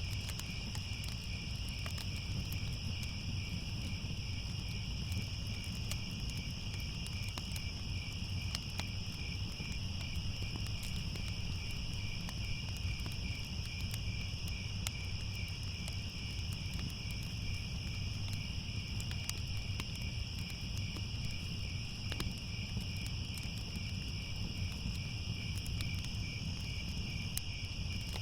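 A steady chorus of crickets chirping, over a low rumble with scattered faint crackles of a fire.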